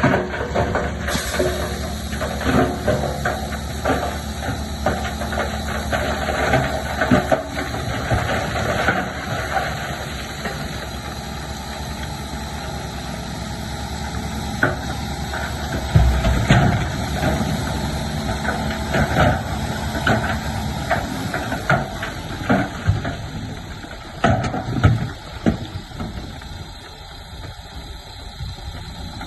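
SHANTUI bulldozer's diesel engine running, with irregular knocks and clatter throughout. The loudest knock comes about halfway through, and the sound eases off near the end.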